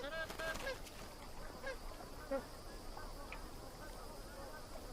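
Magpie geese honking: a cluster of overlapping calls in the first second, then scattered, fainter honks.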